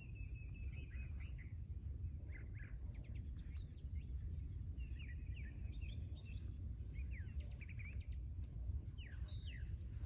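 Small birds chirping repeatedly in short quick notes, over a steady low rumble of background noise.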